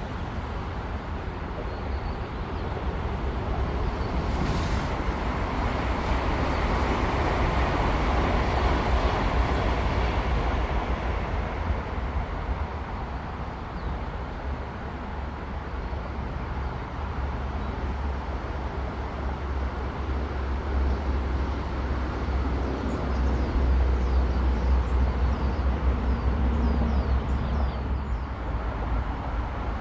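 High-speed train passing at a distance: a steady rush of noise that swells to a peak for several seconds and then fades, over a deep low rumble.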